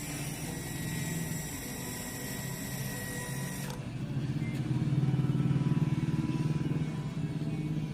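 An engine running with a fast, even pulse, growing louder about halfway through and easing off near the end. A faint steady high hum cuts off abruptly about a third of the way in.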